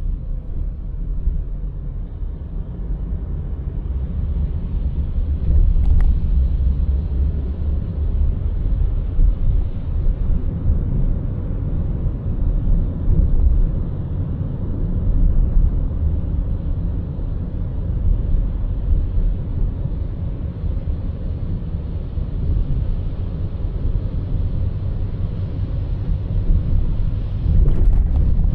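Car driving along a city road: a steady low rumble of road and engine noise, with a brief click about six seconds in.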